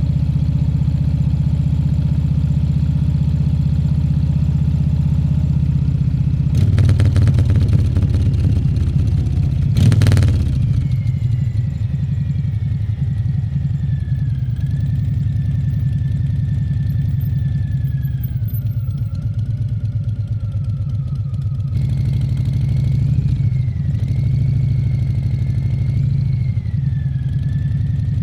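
Harley-Davidson Fat Bob 114's Milwaukee-Eight 114 V-twin engine running while ridden. It gets louder for a few seconds about a quarter of the way in, with a brief loud burst of noise around ten seconds, then settles back to a steady run.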